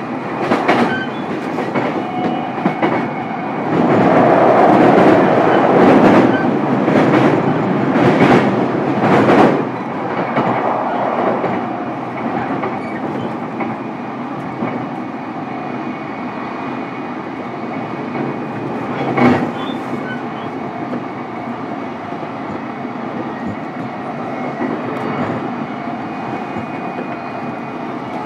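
A JR East E233-series electric train's motor car running at speed, heard from inside the car: steady rolling noise with wheels clacking over rail joints. The noise swells with a run of clacks from about four to ten seconds in, and a single sharp clack comes about nineteen seconds in.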